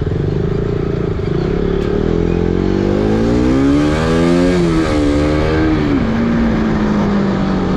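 Motorcycle engine running under way and accelerating: its pitch climbs for a couple of seconds, then drops and settles lower, over a rough, pulsing engine rumble.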